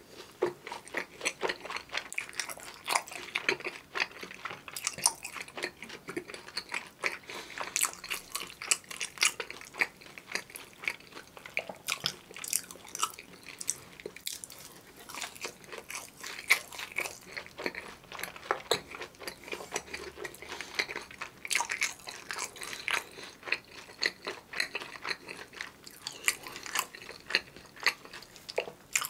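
Close-miked eating sounds: biting into and chewing a breaded fried cheese stick dipped in creamy sauce, with many quick, irregular crunches and wet mouth clicks.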